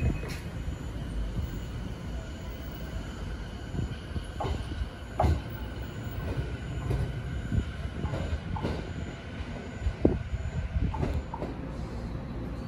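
JR 209 series 2000/2100 electric commuter train pulling out and moving away, with a steady whine and irregular sharp knocks as its wheels pass over rail joints.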